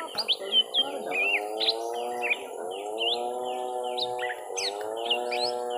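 Young lesser green leafbirds giving fighting calls: a rapid, unbroken run of sweeping chirps and whistled notes. Beneath them runs a steady low droning tone with several overtones, which sags in pitch twice, about two and a half and four and a half seconds in.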